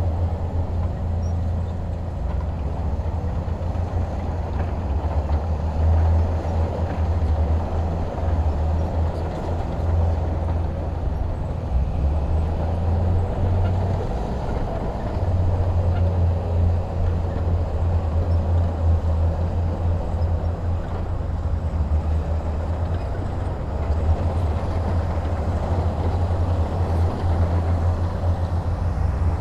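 Heavy diesel engine running steadily, a deep low rumble that eases slightly about halfway through.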